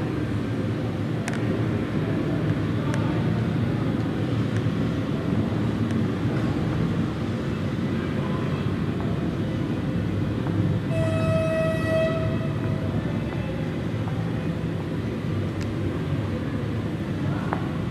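Steady train rumble, with a horn sounding one held tone for about a second just past the middle.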